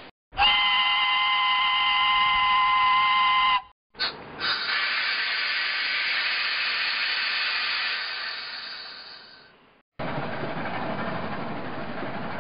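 A train whistle sounds one held, chord-like blast of about three seconds. After a short break, a hissing blast fades away over several seconds. Then the rushing rumble of a passing train cuts in near the end.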